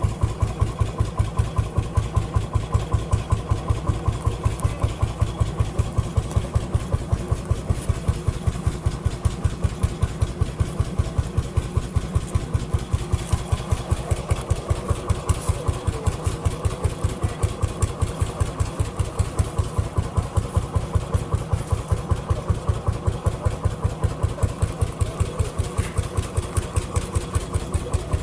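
Vintage engine running slowly and steadily at idle, each firing stroke heard as a separate beat, about four to five a second.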